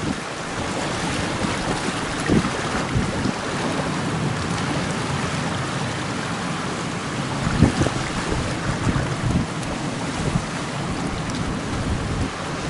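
Strong wind buffeting the microphone over steady sea and surf noise, with harder gusts about two seconds in and again near eight seconds.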